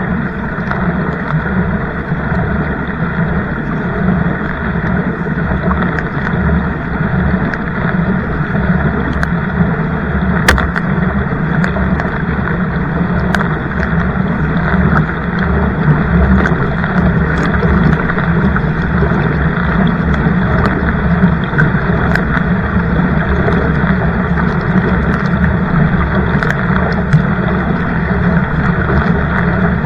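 Steady, loud rushing of water and wind around a kayak, with a few sharp clicks scattered through it.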